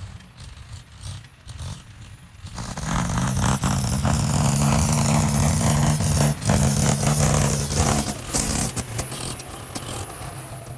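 A heavy machine's engine running, becoming loud about two and a half seconds in and easing off again near the end, with a rattly clatter over the engine note.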